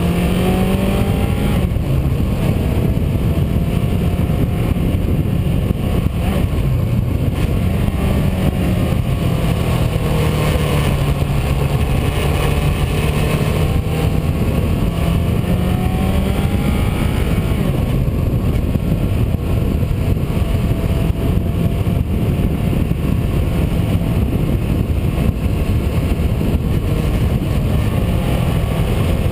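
Car engine running under way, its pitch rising and falling several times with throttle and gear changes, over steady road and wind noise.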